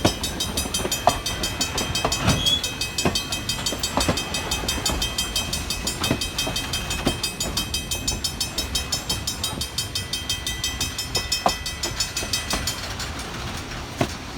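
Heritage steam train running on the rails: a steady rumble with sharp wheel clicks over the rail joints every second or so. A steady high ringing note runs along with it and stops near the end.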